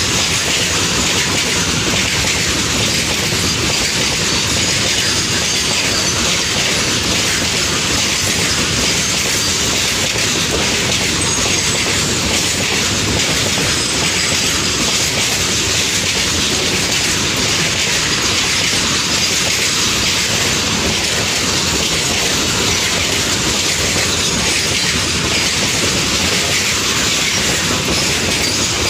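Loaded BCNA covered freight wagons rushing past at high speed close by: a loud, steady rumble and clatter of steel wheels running over the rails and rail joints.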